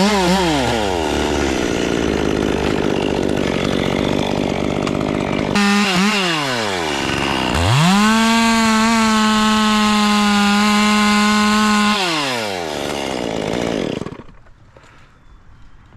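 Chainsaw cutting wood at full throttle, its engine note dropping each time the throttle is let off and climbing sharply when it is opened again about halfway through. About two seconds before the end it winds down and goes quiet.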